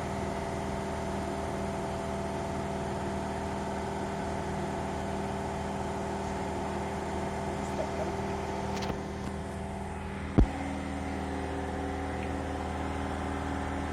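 A machine running with a steady, even hum, having switched on just before. There is one sharp click about ten seconds in.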